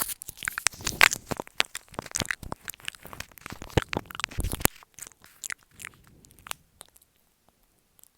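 Close-miked ASMR mouth sounds: quick wet clicks and smacks of lips and tongue, dense for the first four and a half seconds, then sparser and fainter.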